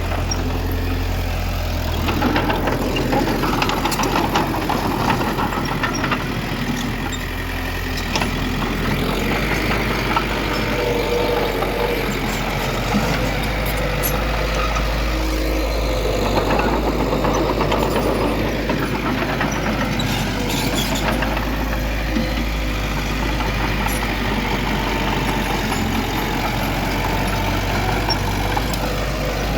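Heavy diesel earthmoving machinery running: a steady low engine drone whose note shifts a few times, with scattered clanks and knocks.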